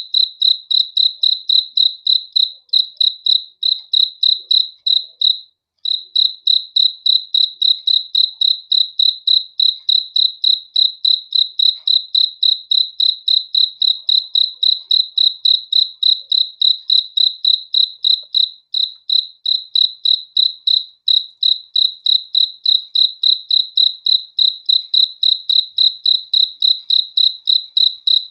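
A cricket chirping in a steady, even rhythm of about three high-pitched chirps a second, with one short break about five seconds in.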